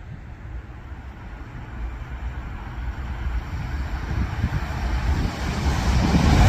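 A train approaching along the platform: a low rumble growing steadily louder over the last few seconds, with wind buffeting the microphone.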